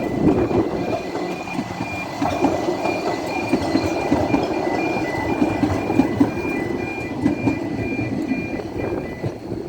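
Level crossing warning alarm sounding as a two-tone pulsing yodel, about one and a half pulses a second, over the steady rumble of a passing train; the alarm stops just before the end.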